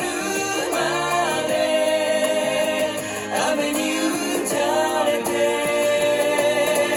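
Male vocal group singing in harmony over acoustic instrumental accompaniment.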